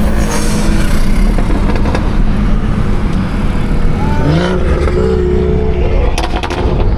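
Car engine and exhaust running loudly with a steady low rumble; about four seconds in, an engine revs up and holds the higher pitch for a second or two.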